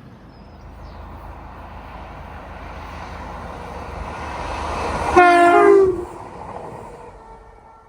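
Train approaching, its rumble growing steadily louder, with a short horn blast lasting under a second about five seconds in; the train sound then fades away.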